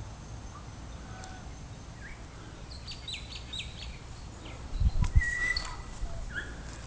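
Small birds chirping in short, high calls, with a quick run of them about three seconds in and a few more near the end. Two low thumps come a little after the middle.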